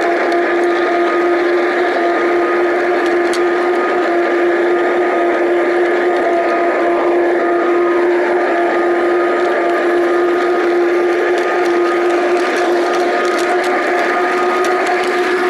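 Large-scale garden-railway model train running: a steady motor hum of a few held tones over wheel-on-track rumble.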